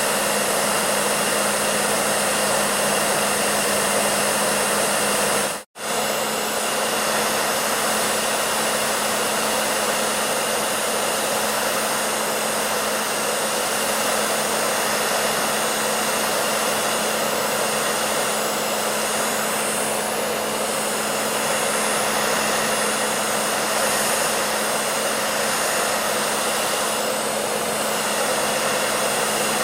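Hair dryer running steadily: an even rushing blow with a constant low hum under it. It cuts out for a split second about six seconds in, then carries on unchanged.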